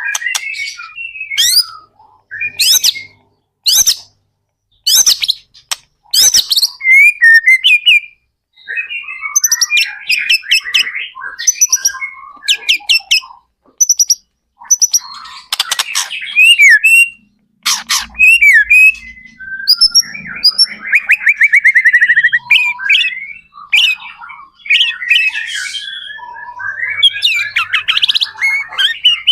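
White-rumped shama (murai batu) singing loudly and continuously: varied phrases of sharp whistled notes, quick sweeping calls and rapid trills, with brief gaps between phrases.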